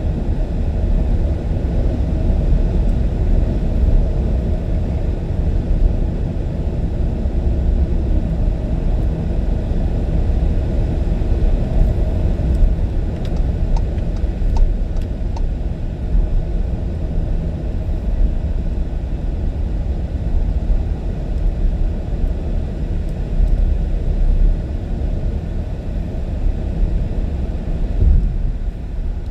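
Steady low rumble of a car driving at highway speed, road and tyre noise with the engine underneath, with a few faint ticks about halfway through.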